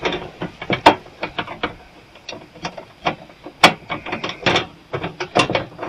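Hand tools working on the stripped-down welder's metal frame: a quick, irregular run of sharp clicks and small metallic knocks, with two louder knocks about a second in and in the middle.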